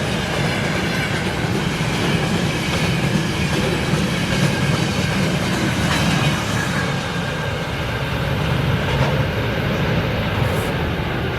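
A train rolling past, its wagons' wheels running steadily on the rails.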